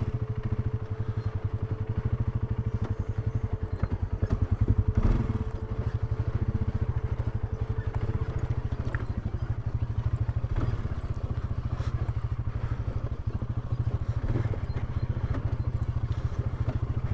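Polaris ATV engine running at low speed with an even, pulsing exhaust note while crawling over a rocky, washed-out trail, with a few clatters and knocks from rocks under the machine about four to five seconds in.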